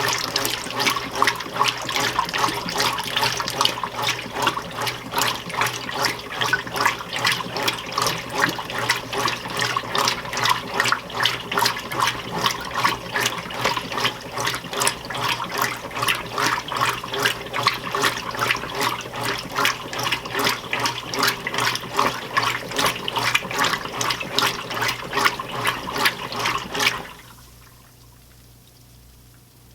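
Admiral belt-drive top-load washing machine agitating a medium load in its wash water: its single-action agitator swishes the water back and forth in a steady rhythm of about two to three strokes a second over a low motor hum. The agitation stops abruptly about 27 seconds in, leaving only a faint hum.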